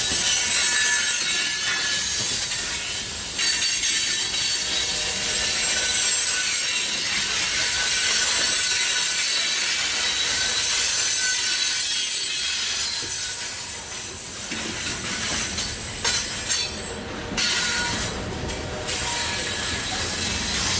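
Loaded coal train's steel wheels rolling past on the rails in a continuous steady hiss, with thin high-pitched wheel squeal coming and going.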